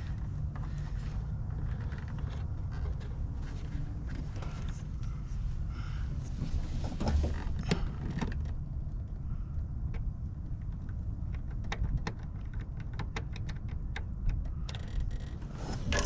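Light metal clicks, taps and scrapes from a hand tool marking a drilling point on metal, scattered and irregular, with a cluster about halfway through and more near the end, over a steady low hum.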